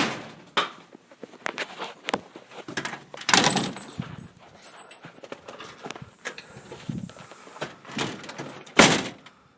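Footsteps crunching and packing in deep snow, an uneven run of crunches and knocks with three heavier thumps, and a thin high squeak about four seconds in.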